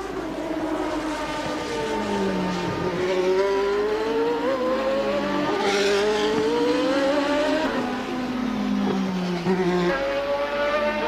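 1988 Formula One racing car engine at race speed, its pitch climbing and falling several times as the car accelerates and slows.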